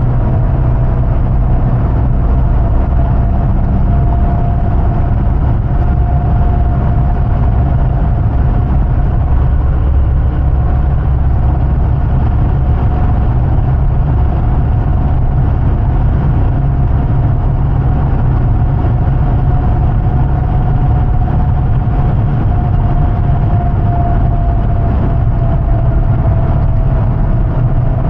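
2005 Hummer H2's 6.0-litre Vortec V8 and drivetrain running steadily while driving: a deep, even rumble with a whine that drifts slowly up and back down in pitch.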